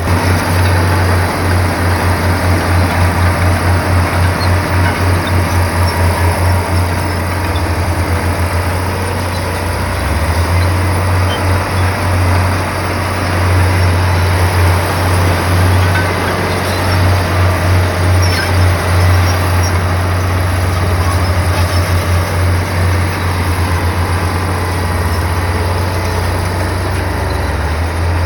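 Komatsu bulldozer's diesel engine running with a deep low throb that beats and swells unevenly in level.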